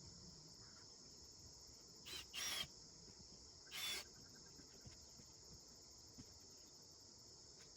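Steady high-pitched insect chorus, with two short, louder scratchy noises at about two and four seconds in.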